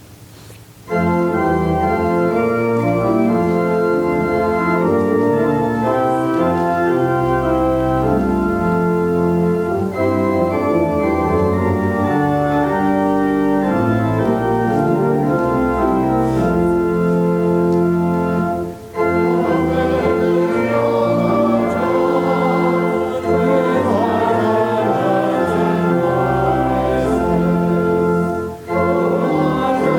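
Church organ playing a hymn in sustained chords, starting about a second in, with two short breaks between phrases. Voices join in singing during the second half.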